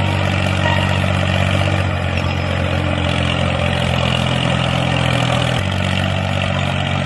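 Tractor engine running at a steady idle, an even low chug, with a slight shift in its note about five and a half seconds in.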